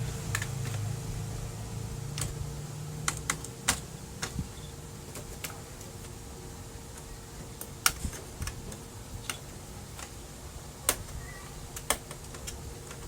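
Irregular sharp clicks and taps of small parts and tools being handled while a laser printer is taken apart and reassembled, with a faint steady hum underneath.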